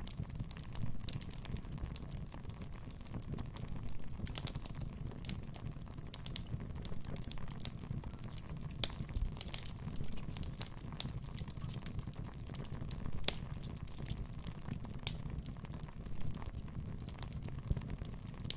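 Wood fire burning in a fireplace: irregular sharp crackles and pops from the burning logs over a steady low rumble of the flames, with a few louder pops.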